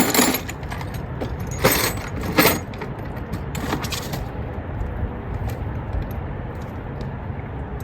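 Metal hand tools clinking and clattering as they are handled, in a few short bursts about a second in, near two seconds and near four seconds, over a steady low rumble.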